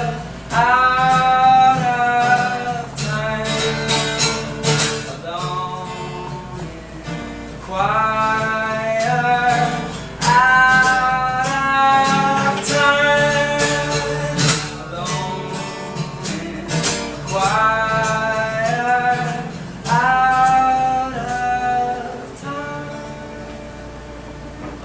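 Acoustic guitar strummed live under a man singing a melody without words, in phrases of about a second. It gets quieter over the last few seconds as the song winds down.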